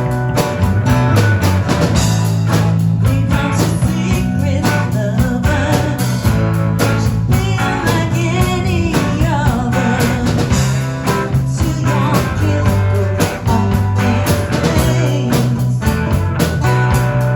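Live rock band playing a song: guitar, bass and drums with a lead singer.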